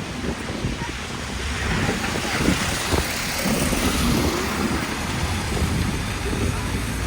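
City street traffic: a low motor-vehicle rumble, with the tyre hiss of a passing vehicle swelling through the middle.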